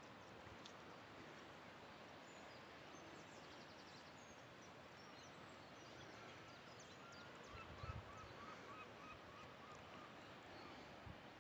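Near silence over a faint steady hiss, with faint distant bird calls, among them a quick run of short repeated notes from about six and a half to nine seconds in.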